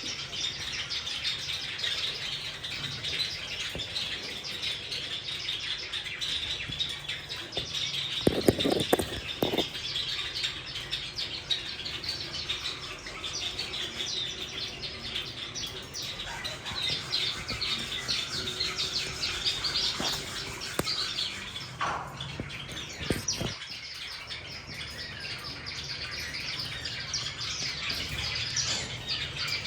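Cockatiels chirping and calling continuously as a flock. A short run of low thumps about eight seconds in is the loudest moment, with a few single knocks later on.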